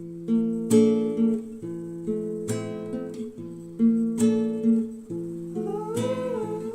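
Background music: an acoustic guitar strumming chords, each strum ringing out, a few seconds apart. Near the end a hummed melody glides in over the guitar.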